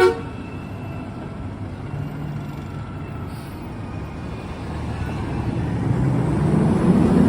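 Recycling truck engine running, growing louder over the last couple of seconds as it revs and pulls away.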